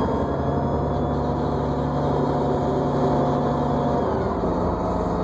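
New Flyer D40LFR diesel transit bus running, heard from inside the cabin: a steady engine drone with a whine in it, whose tones shift in pitch about four seconds in.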